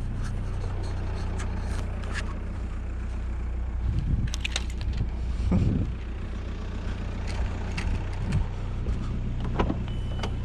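Car engine running steadily with a low hum, with scattered light clicks and knocks over it.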